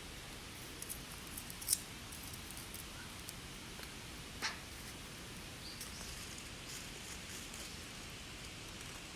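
Steady rushing of a clear mountain river, with a few sharp clicks scattered through it, the loudest about two seconds in and a short sharp snap about four and a half seconds in.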